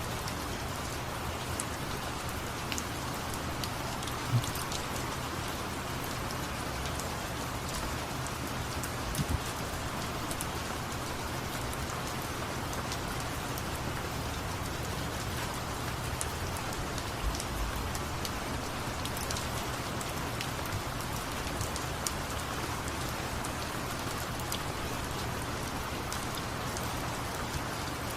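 Steady rain falling: an even hiss of rain with scattered drip ticks, and a few slightly louder taps that stand out now and then.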